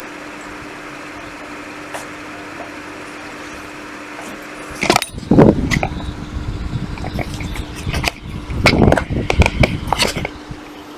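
A steady low hum with faint hiss, then from about five seconds in a run of irregular clicks, knocks and rustling from objects being handled close by.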